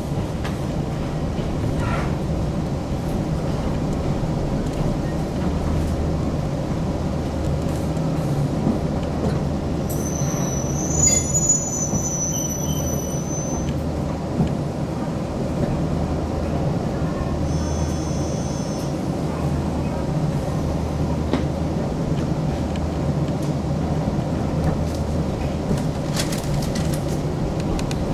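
Running noise inside a Toyama Chiho Railway electric train car: a steady rumble of motors and wheels on the rails. A brief high-pitched squeal comes about ten seconds in, a shorter high ringing tone follows a few seconds later, and there are a few clicks near the end.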